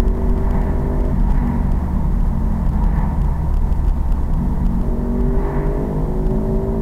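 Single-cylinder pit bike engine running on the move. The note is steady at first, wavers through the middle, then holds at a slightly rising pitch for the last couple of seconds.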